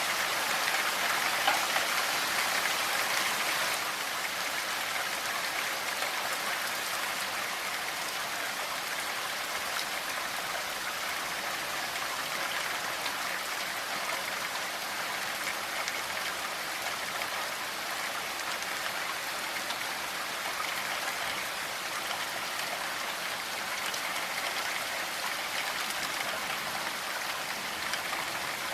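Steady rain falling, a dense even hiss of many drops with no thunder, a little louder for the first few seconds.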